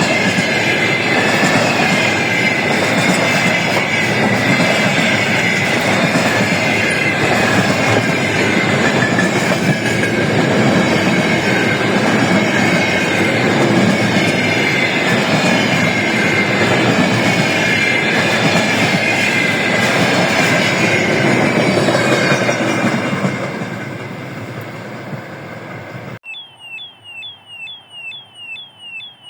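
A train passing close by, its wheels clattering on the rails with a high squeal, the sound fading away after about 23 seconds. Near the end it is suddenly replaced by a rapid repeating electronic beeping alarm, about three beeps a second.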